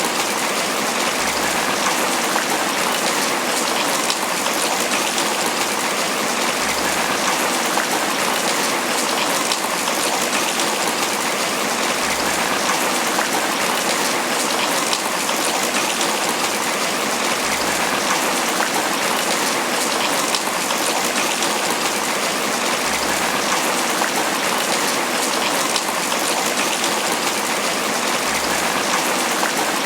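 Steady heavy tropical rain pattering on banana leaves, a dense even hiss of many drops without let-up.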